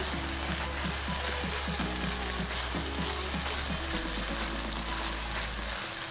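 Mixed vegetables, shredded chicken and scrambled egg frying in a hot oiled wok as they are stirred with a spatula: a steady sizzling hiss. Background music plays along with it.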